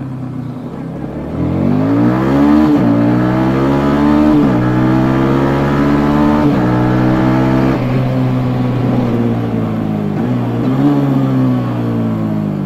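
Yamaha Jupiter MX King 150's single-cylinder four-stroke engine through its stock exhaust, accelerating hard through the gears. The pitch climbs steeply, drops sharply at each upshift, then falls as the throttle eases off near the end.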